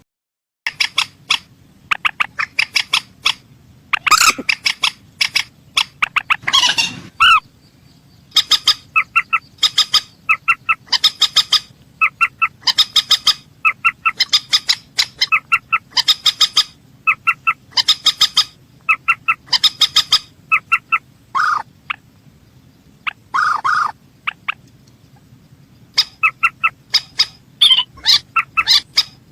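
Mandar sawah (a rail) calling over and over: short bursts of rapid pulsed notes about once a second, broken now and then by a louder, harsher call.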